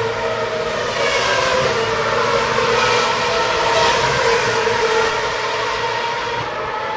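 Several racing car engines running at high revs together, their whining pitches shifting up and down, slightly louder about halfway through.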